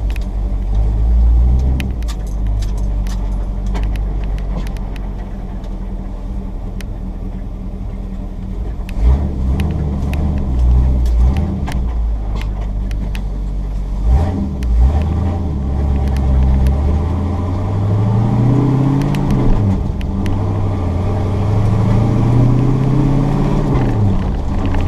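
Chevy 454 big-block V8 pulling a pickup down the road. Its pitch climbs twice in the second half of the stretch and drops away after each climb, as the five-speed manual is shifted up. Small clicks and rattles come through the first part.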